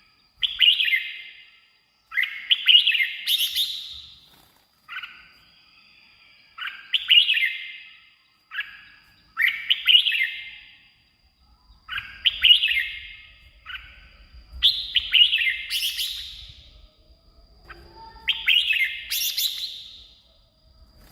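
Red-whiskered bulbul singing: about ten short, bright, warbled phrases in a row, one every couple of seconds with brief pauses between.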